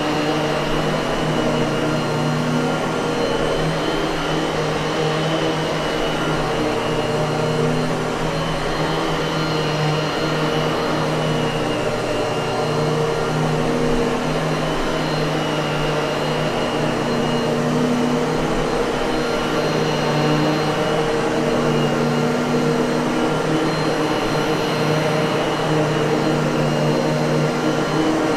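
Miele vacuum cleaner motor running steadily: an even whooshing rush of air with a constant hum.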